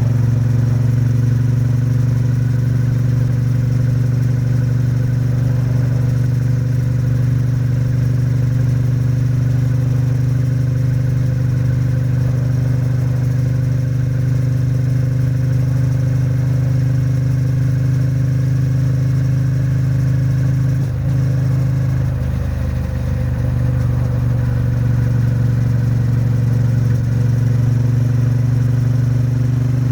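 Triumph Bonneville T100's 900 cc parallel-twin engine and exhaust running at a steady pace, dipping briefly about three-quarters of the way in before settling back.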